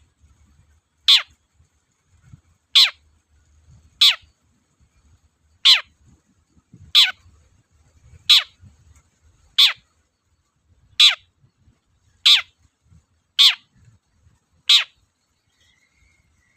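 Long-tailed shrike (cendet) giving a harsh call over and over, eleven times at an even pace of about one every 1.3 seconds. Each call is a short, rasping downward sweep in pitch.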